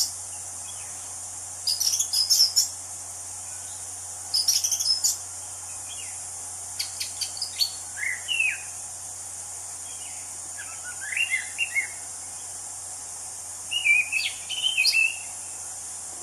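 Anis cendana (orange-banded thrush) singing short, varied phrases of whistles and chirps, a new phrase every two to three seconds. A steady high insect drone runs underneath.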